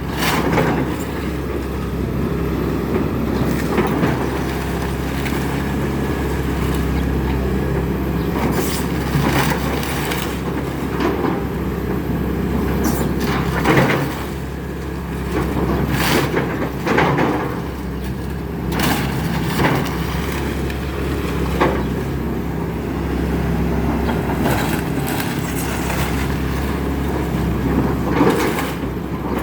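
Excavator's diesel engine running steadily under irregular cracks and crunches of a house being torn down.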